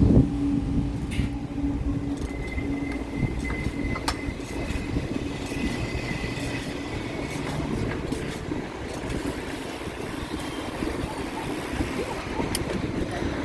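Wind rumbling on the microphone and road noise from a moving bicycle, with a steady hum that fades out about three seconds in and a few sharp clicks.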